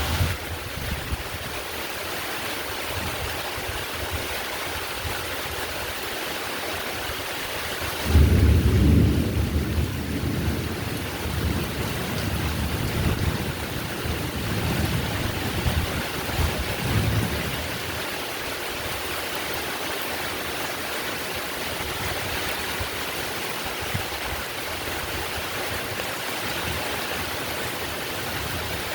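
Heavy steady rain with a thunderclap about eight seconds in that rolls on for several seconds before fading back into the rain.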